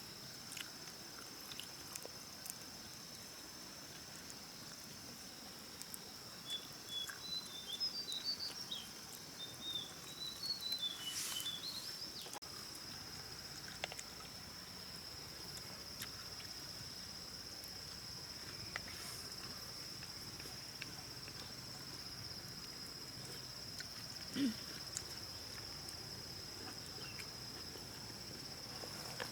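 Steady high-pitched insect chorus, typical of crickets or cicadas. A bird chirps in a quick run of short notes for several seconds early on, and scattered light clicks and taps come through, the loudest a sharp click about two-thirds of the way in.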